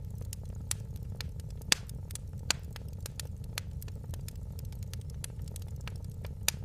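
Fireplace fire crackling: many sharp pops and snaps over a steady low rumble. The loudest pops come just under two seconds in, again at about two and a half seconds, and near the end.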